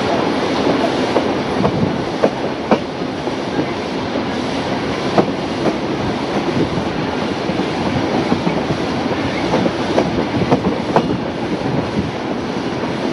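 Steam-hauled heritage passenger train running along the line, heard from beside a carriage: a steady rumble of wheels on track with sharp clicks now and then as the wheels cross rail joints.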